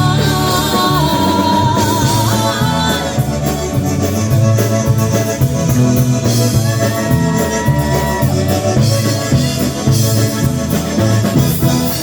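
Live polka band playing a song with a steady beat, bass and drums under held melody notes, a few of them sliding in pitch.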